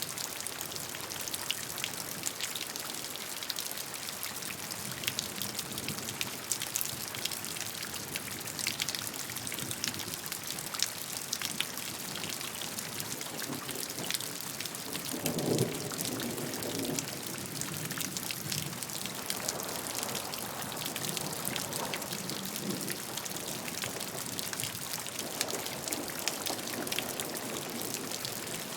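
Steady rainfall, with many small drops ticking on surfaces over an even hiss. About halfway through comes a brief low rumble lasting a second or two.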